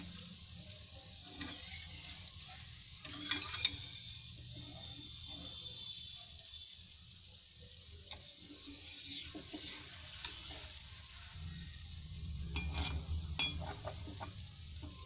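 Mava-and-maida rasgulla dough balls sizzling as they deep-fry, with a perforated metal skimmer scraping and clinking against the pan as they are stirred and turned. The scrapes come in clusters, about three and a half seconds in and again around thirteen seconds.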